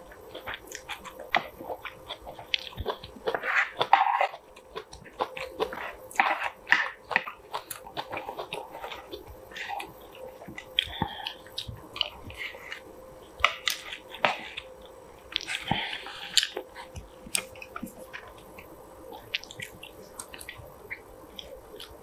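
Close-miked chewing of braised kimchi, canned saury and rice: a steady run of short clicks and mouth noises.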